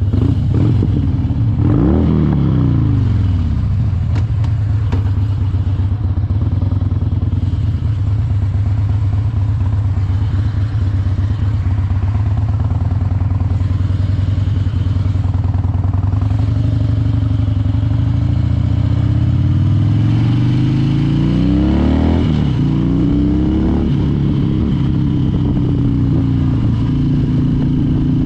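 Harley-Davidson Dyna Wide Glide's V-twin engine running on the road. It revs up and back down about two seconds in, then climbs steadily in pitch from about eighteen seconds to a peak near twenty-two and holds a higher, steady note toward the end.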